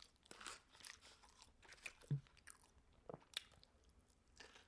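A person chewing food close to the microphone: faint wet mouth clicks and smacks with a few crunchy bites, louder about two seconds in and again a little after three seconds.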